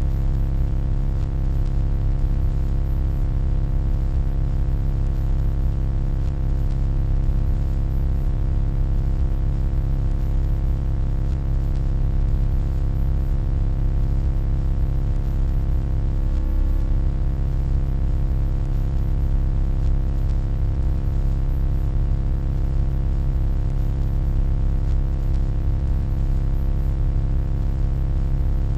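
Steady electronic hum: a deep drone with many fixed tones layered above it and a soft hiss on top, unchanging throughout. A brief faint warble shows about sixteen seconds in.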